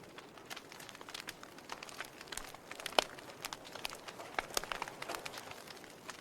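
Wood fire in a fireplace crackling, with irregular pops over a soft hiss and one sharper, louder snap about three seconds in.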